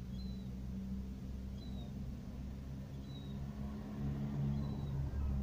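A car's engine idling, heard from inside the cabin as a low steady hum, with another car pulling up close alongside about four seconds in, making the sound louder. Faint short high chirps repeat about every second and a half.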